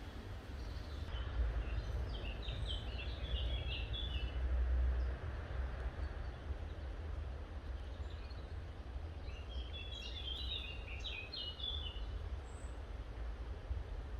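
A small songbird sings two short phrases of quick chirping notes, several seconds apart, over a steady low rumble.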